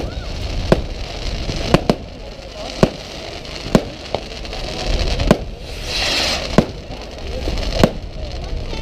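Fireworks bursting overhead, sharp bangs coming about once a second, with a short hiss about six seconds in.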